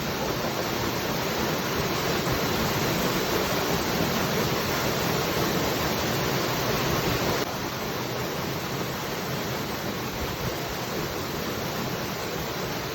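Waterfall rushing steadily, a dense even roar of falling water. About halfway through the sound drops a little in level all at once, then carries on unchanged.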